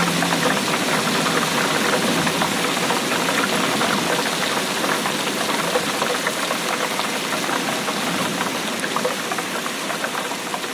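Steady rainfall: a dense, even hiss of rain made up of many small individual drop impacts.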